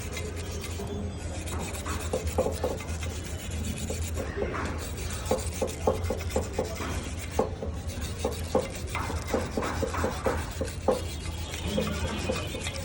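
Irregular hand scraping strokes on an engine cylinder head being cleaned, a few a second, over a steady low hum.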